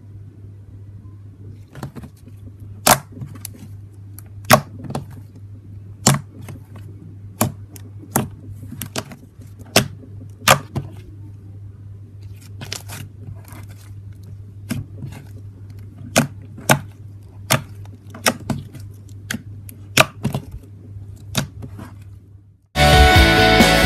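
Slime being pressed and squeezed, giving sharp pops and clicks of trapped air about once a second, over a low steady hum. Loud music starts about a second before the end.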